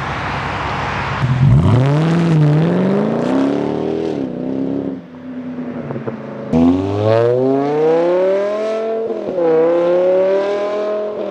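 A car engine accelerating hard twice, the revs climbing steeply each time, the second run with a brief drop in pitch partway, as at a gear change.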